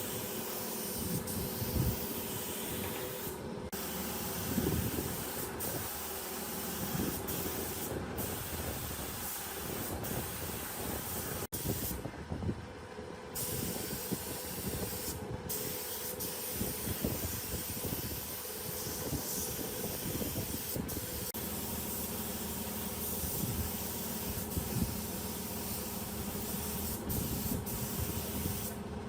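A steady spraying hiss that breaks off briefly several times in its upper part.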